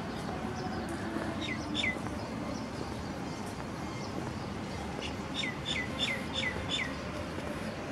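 A bird calling: two quick falling chirps, then a run of five more, about a third of a second apart, over a steady outdoor background hum.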